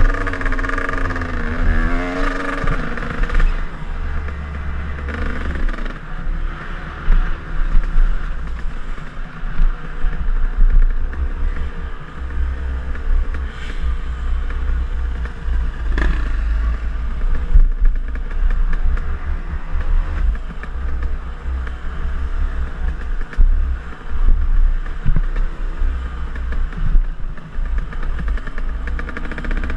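KTM enduro dirt bike engine running under a riding rider, its pitch rising and falling as the throttle opens and closes, with a heavy low rumble throughout. One sharp knock comes about halfway through.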